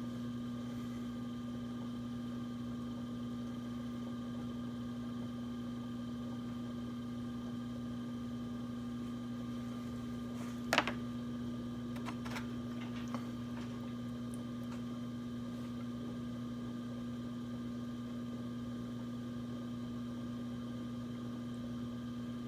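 Electric potter's wheel motor running with a steady hum while a lid is thrown. A sharp click about halfway through, then two fainter ones.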